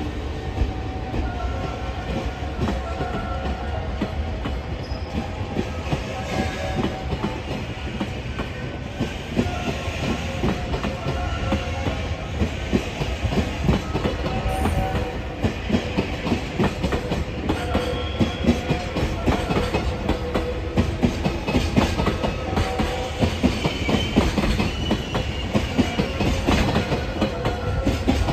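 Freight train rolling out, its wagons clacking over rail joints above a steady low rumble; the clacks grow sharper and more frequent in the second half as it picks up speed.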